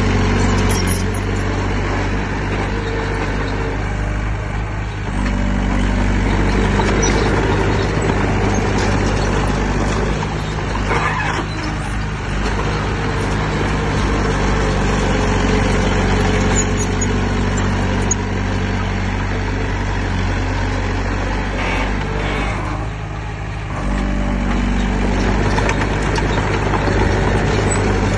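Heavy diesel engine of earthmoving machinery running steadily, its note dipping and shifting a few times as the load changes.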